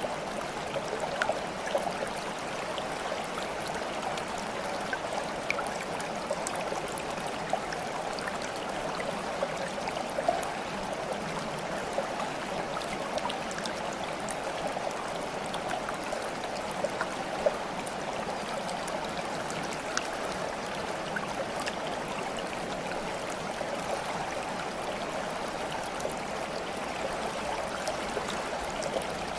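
Steady babbling and trickling of flowing water, like a small stream, with small splashes and drips scattered through it.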